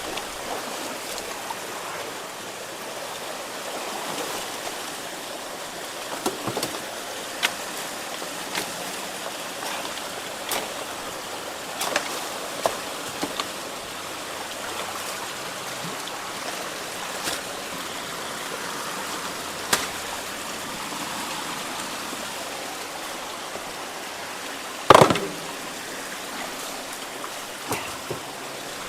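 Steady rush of floodwater flowing through a clogged culvert and ditch, with scattered knocks and clicks from debris being handled, one louder knock near the end.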